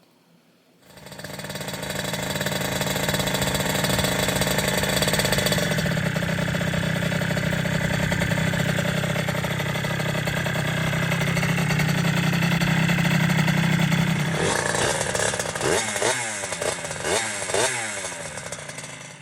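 Rebuilt 1981 Suzuki RM80 air-cooled two-stroke single-cylinder engine running steadily. Near the end it is blipped four or five times, each rev rising and falling.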